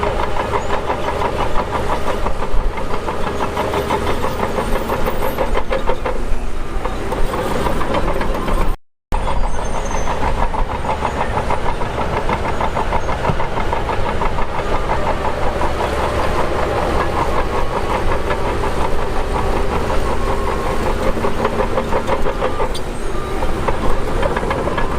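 Heavy-equipment diesel engine running steadily with a fast, even pulse; the sound drops out briefly about nine seconds in.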